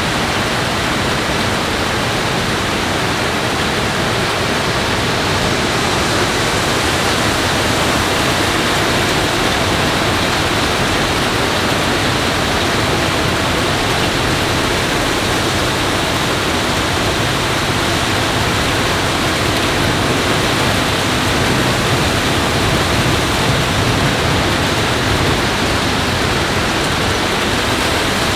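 Loud, steady rushing of water, even and unbroken throughout.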